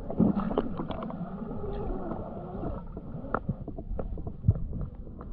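Muffled underwater sounds: bubbling and gurgling with wavering, warbling tones for the first few seconds, then scattered small clicks and knocks.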